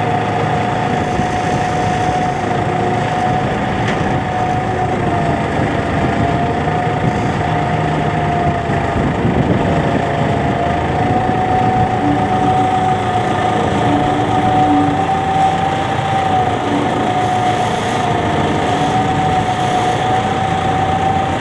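New Holland 7610S tractor's diesel engine idling steadily, with a high whine running through it that wavers slightly in pitch.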